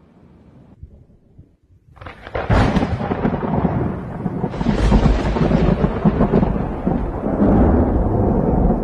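A close thunderclap: after a couple of seconds of faint low rumble, a sudden loud crash about two seconds in, then a long, loud rolling rumble that surges again twice.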